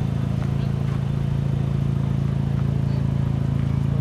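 Car engine idling steadily, a low even hum that holds the same pitch throughout, with no revs.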